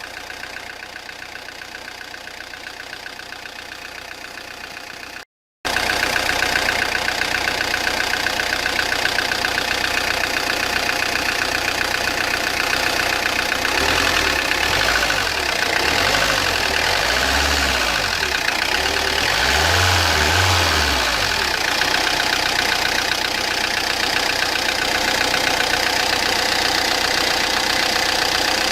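Peugeot Partner 1.9 diesel engine running with a loud, rapid, regular knocking clatter, which the mechanic takes for mistimed timing letting the pistons strike the valves. The sound cuts out briefly about five seconds in and comes back louder.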